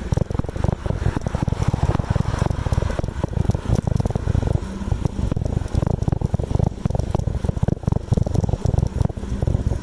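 Wind buffeting the microphone on a moving bicycle: a dense, constantly fluttering low rumble with rapid crackling and rattling clicks throughout.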